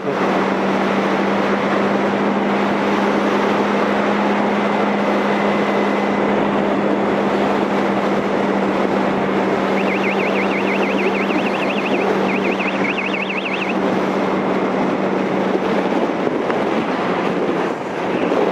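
Yamaha R1 inline-four engine running at a steady cruising speed, its note holding one pitch, under heavy wind rush on the rider's microphone. A brief high warbling sound comes in about ten seconds in and lasts a few seconds.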